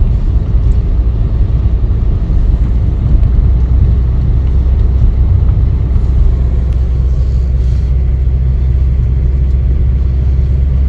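A 2010 Chevrolet Camaro driving, heard from inside the cabin: a steady low rumble of engine and road noise.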